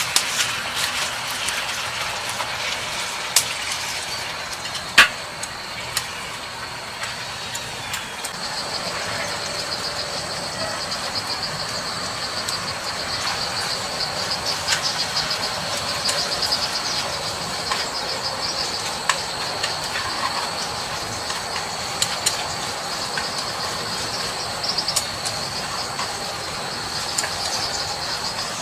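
Insects trilling in a steady high pulsing buzz that sets in about eight seconds in, over a constant background hiss. Scattered sharp clicks and knocks come through, with a loud single snap about five seconds in.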